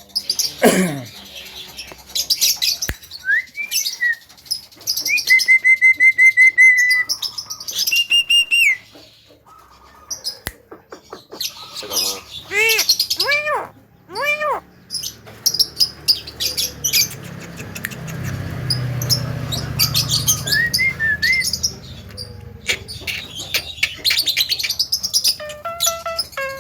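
Javan myna (jalak kebo) calling and singing: a varied run of clear whistles, rising slides, a quick series of repeated notes and several arching slurred notes, mixed with harsher chatter.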